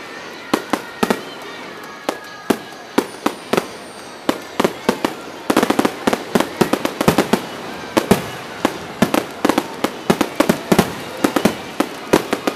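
Aerial firework shells bursting overhead: dozens of sharp bangs, spaced out at first, then coming thick and fast from about halfway through.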